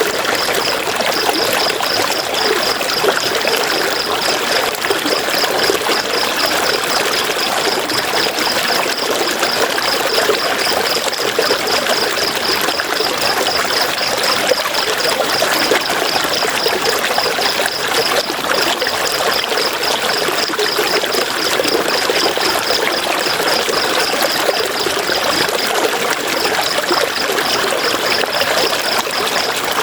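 A river flowing in a steady rush of water, with a high chirp pulsing several times a second above it that breaks off briefly near the end.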